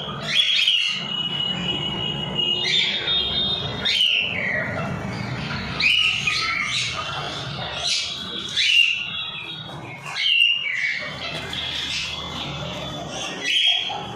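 Pet birds calling: short, shrill calls, several with a falling pitch, repeated every second or two over a steady low background noise.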